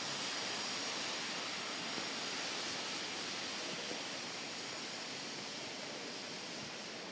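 Steady hiss of falling rain, an even wash of noise with no distinct knocks or tones, fading slightly towards the end.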